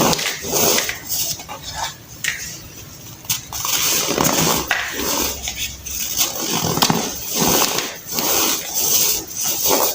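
Hardened baking soda being crushed by hand, crunching and crumbling in a run of uneven, repeated crunches.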